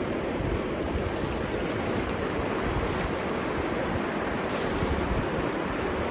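Steady rush of flowing river water, with wind buffeting the microphone in low rumbles.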